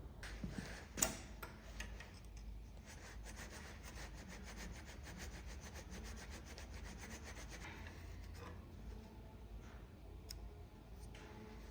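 Sandpaper rubbed by hand back and forth along a hard Apex Ultra steel knife blade in quick repeated strokes, with one sharp knock about a second in.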